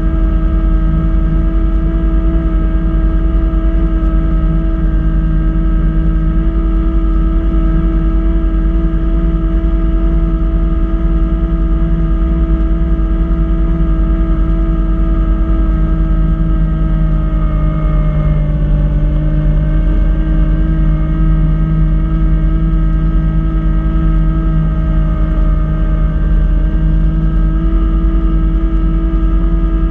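Kubota B2650 compact tractor's diesel engine driving a front-mount B2782 snowblower, running steadily at working speed with a constant whine. The pitch sags briefly about two-thirds of the way through, then recovers.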